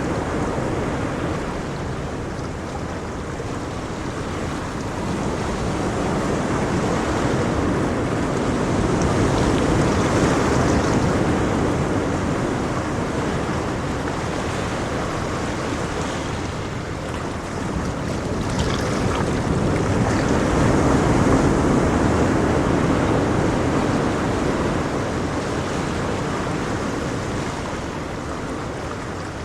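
Ocean waves breaking and washing on a shore, a steady rush that swells and eases slowly, building to louder surges about ten seconds in and again about twenty seconds in.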